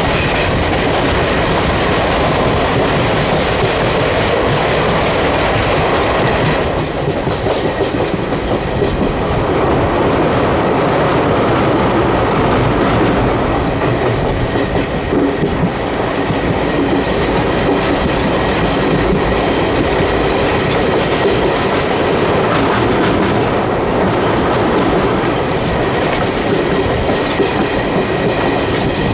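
Indian Railways passenger train (the Koyna Express) running on the track, with a steady rumble and the clickety-clack of its wheels over the rail joints. About six seconds in, the sound turns duller and slightly quieter.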